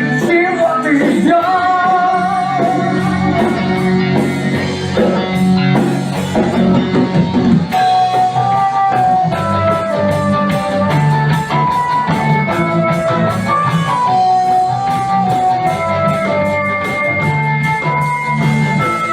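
A rock band playing, with guitars, bass and drums under a melodic lead line that moves from note to note.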